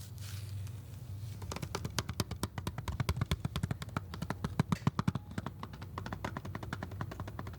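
Rapid ASMR tapping on the packaging of a Blu-ray box set: a dense run of light taps and clicks, many a second, starting about a second and a half in.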